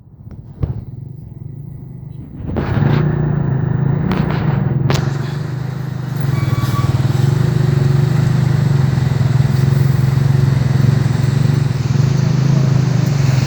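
Lorry engine and road and wind noise heard from the open back of the truck: quiet at first with a few knocks, then the engine and the rush of travel come up loudly about two and a half seconds in and carry on steadily.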